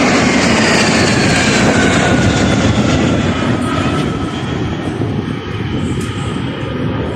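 An airplane flying past, its loud engine noise with a whining tone that slides steadily down in pitch as it goes by, easing off in the second half.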